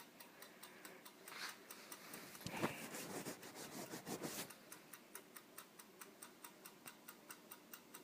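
Faint, steady ticking of a microwave's mechanical timer as it counts down, about five ticks a second. A few brief, louder noises come between about one and four and a half seconds in.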